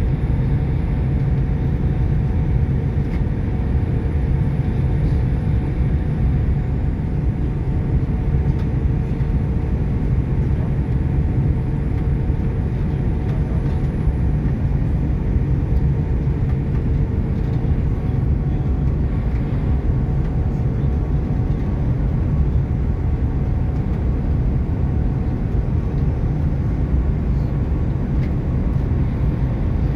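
Steady cabin noise of an Airbus A310 airliner on its approach to landing: a deep rumble of the twin jet engines and the air rushing past, with a faint steady hum over it.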